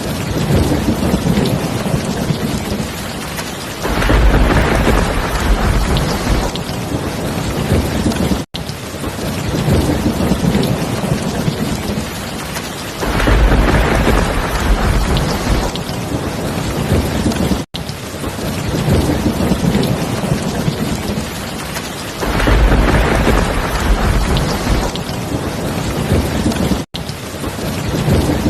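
Steady heavy rain with a deep rumble of thunder rolling in about every nine seconds, three times. The same stretch repeats with a brief cut-out at each restart, as a looped rain-and-thunder recording does.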